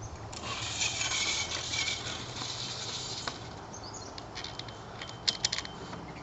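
Birdseed pouring with a steady rush for a couple of seconds, then a few sharp clicks and knocks, loudest about five seconds in, as parts of the bird feeder are handled.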